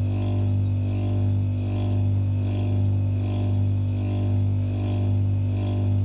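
Embraco compressor of a 2001 Whirlpool refrigerator running with a loud, steady low hum and buzz that throbs in a slow, even pulse a little faster than once a second. The noise is the abnormal 'bad sound' the owner is showing.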